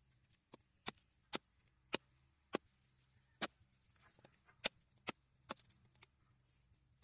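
Sharp chopping strikes, a blade coming down again and again: about ten hard hits, unevenly spaced, some closer together in pairs.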